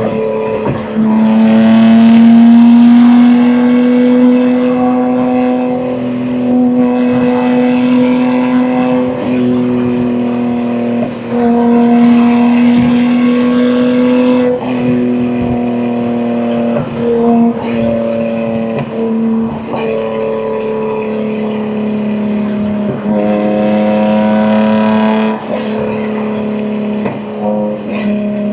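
BMW M2 G87's S58 twin-turbo inline-six under way, its exhaust loud through catless downpipes and an equal-length mid pipe. The engine note holds fairly steady in stretches of a few seconds and dips briefly about eight times. It is loudest a few seconds in.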